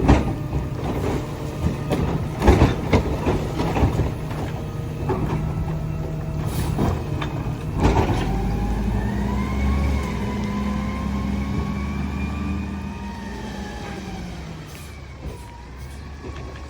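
Garbage truck at work: a string of bangs and clanks as heavy trash is dumped into the hopper, then about eight seconds in the truck's engine revs up under load with a slowly shifting whine, easing off near the end.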